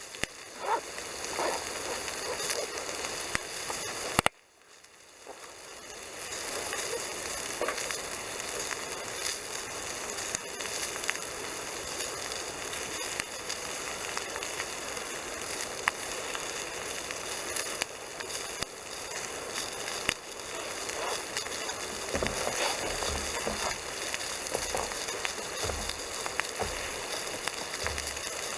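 Bacon and sausage sizzling in a frying pan over a campfire, with the wood fire crackling in sharp scattered pops. The sound cuts out suddenly about four seconds in and fades back up.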